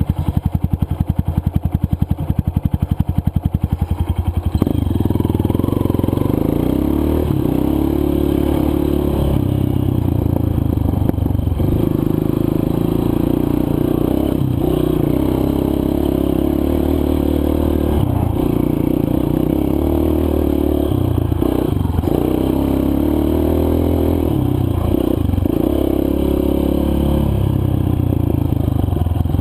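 Four-stroke single-cylinder dirt bike engine chugging at low revs, then picking up about four and a half seconds in and running steadily under throttle on the trail, with short dips in revs every few seconds.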